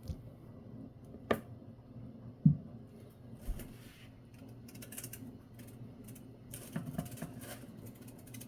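Knife peeling a potato: scattered light scrapes and clicks, with one dull knock about two and a half seconds in.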